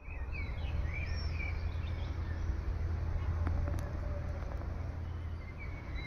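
Wind buffeting the microphone as a steady low rumble, with small birds chirping and twittering in the background.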